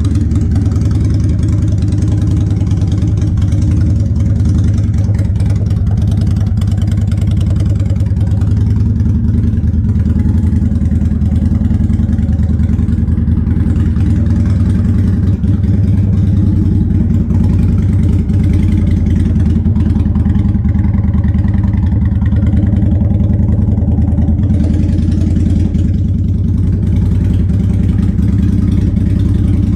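2006 Harley-Davidson Sportster's air-cooled V-twin with Vance & Hines exhaust idling steadily, still cold with the choke on.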